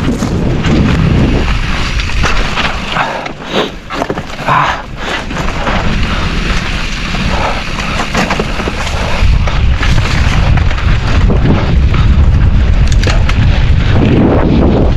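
Mountain bike riding down a rough trail: wind buffeting the microphone, with knocks and rattles as the bike goes over rocks and bumps. The wind grows louder and steadier from about nine seconds in as the bike picks up speed.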